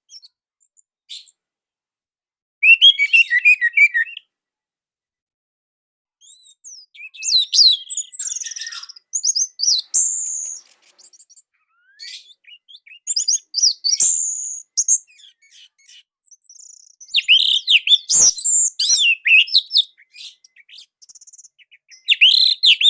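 Orange-headed thrush singing: rapid, varied phrases of high whistles and chirps, given in bursts with short pauses between them, starting about two and a half seconds in.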